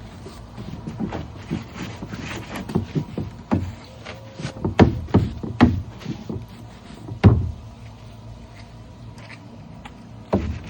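Irregular knocks and bumps against a plastic wheeled recycling bin while its back panel and wheels are cleaned, the hardest one about seven seconds in.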